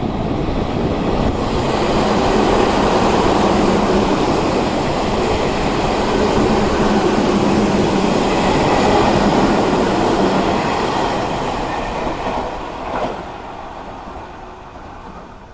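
Tokyu 5000 series electric commuter train running past the platform: a loud, steady rumble of wheels on rail with a steady hum under it. The sound eases off over the last few seconds.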